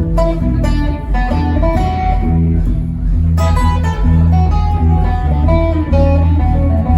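Live band music with strummed and picked guitars over a steady bass.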